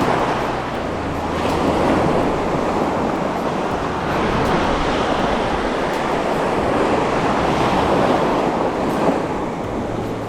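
Surf washing onto a beach, swelling and easing every few seconds, with a low rumble of wind on the microphone.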